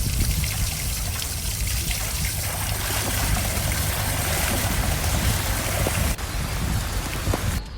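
Running water, a steady noisy rush with a low rumble. The sound changes abruptly about six seconds in and again near the end, as if cut.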